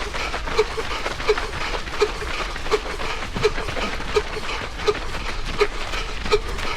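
A runner's heavy, wheezing breathing in a steady rhythm: a short voiced huff on each breath, about every three-quarters of a second, with footfalls in between.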